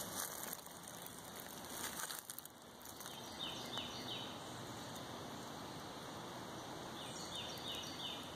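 Quiet outdoor woodland ambience with a steady hiss. A bird calls twice, a few seconds apart, each time a quick run of three short falling notes.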